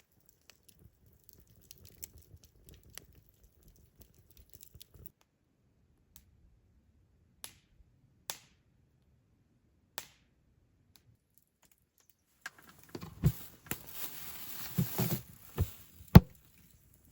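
Scattered small clicks and taps, then a few seconds of rustling handling noise with several thumps, ending in one sharp knock.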